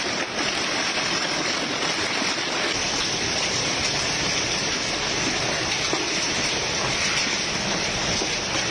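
Heavy rain pouring down in a storm: a steady, even rush of noise with no letup.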